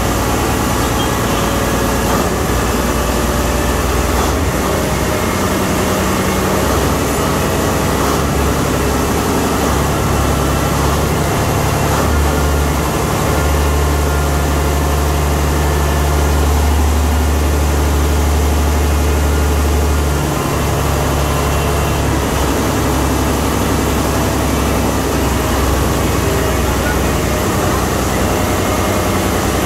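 Ship's main engine running, a loud steady machinery drone with a deep hum that swells for several seconds around the middle.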